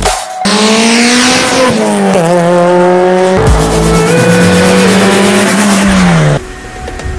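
Mitsubishi Lancer Evolution's turbocharged four-cylinder engine running hard at high revs. Its pitch holds nearly steady for about six seconds, with a brief dip and wobble about two seconds in and a hiss over it, and it cuts off suddenly near the end.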